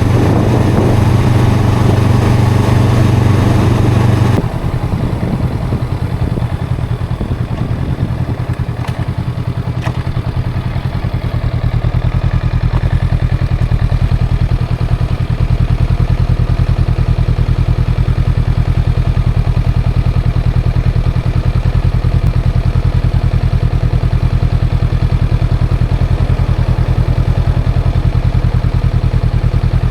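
Honda CL500 parallel-twin engine and exhaust running, a loud steady note that drops off sharply about four seconds in and then settles into a steady, lower pulsing drone from about twelve seconds on.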